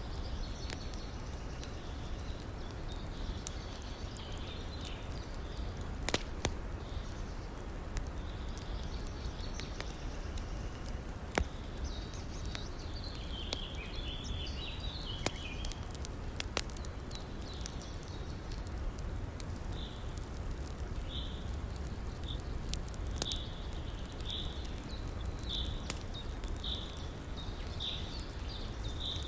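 Wood campfire crackling with a few sharp pops over a steady low rush of river water. High, short chirping calls repeat over and over, more regularly in the second half.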